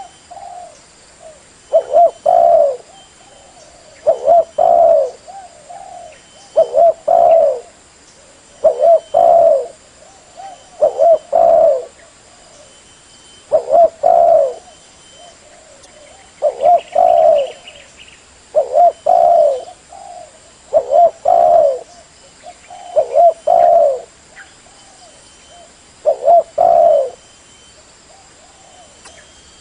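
Spotted dove cooing over and over, one short phrase of two or three low notes about every two seconds.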